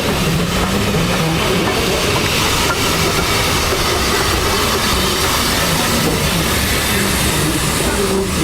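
Narrow-gauge steam train on the move: a steady, unbroken running noise.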